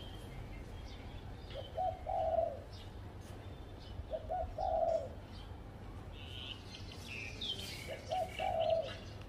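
Spotted dove cooing: three calls about three seconds apart, each a short note running into a longer coo. Small birds chirp higher in the background.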